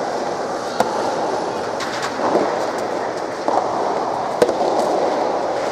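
Soft tennis rackets hitting the soft rubber ball, several sharp pops a second or more apart, over a steady murmur of crowd and hall ambience.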